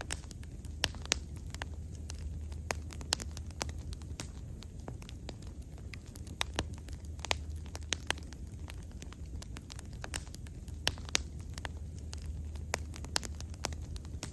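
Wood bonfire burning, crackling with sharp irregular pops several times a second over a low, steady rumble of the flames.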